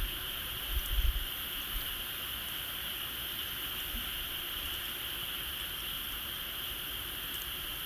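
Steady high-pitched outdoor chirring chorus with faint, scattered crackles from a wood bonfire, and a few low thumps about a second in.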